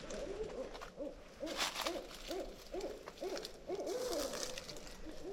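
Barred owl calling: a rapid run of about a dozen short, arched hoots.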